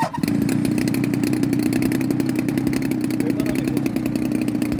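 Gas engine of a large-scale RC model plane running steadily at an even speed, cutting in abruptly just after the start.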